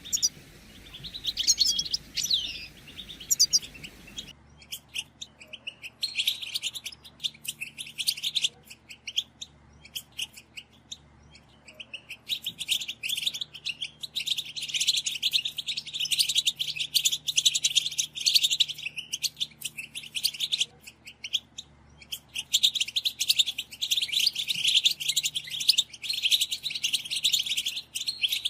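European goldfinches calling together: a dense, rapid flurry of chirping calls. About four seconds in, the sound switches abruptly to a busier chorus of many birds.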